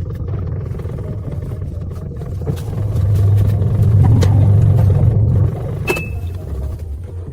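A machine running with a steady low rumble that swells louder for a couple of seconds in the middle, with a few sharp clicks and knocks toward the end.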